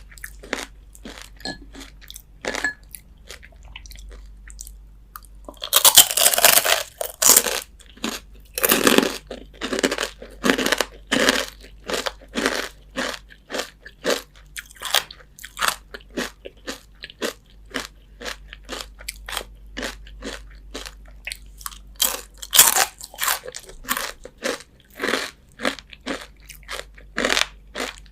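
Crispy fried chicken skin being bitten and chewed: a steady run of sharp crunches, with two louder stretches of hard crunching, one about six seconds in and one about four-fifths of the way through.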